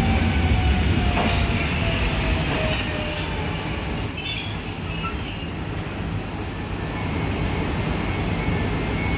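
PolRegio electric multiple unit coming into the platform and slowing down. A low running rumble carries a motor whine that falls in pitch, and high-pitched squealing runs from a few seconds in for about three seconds.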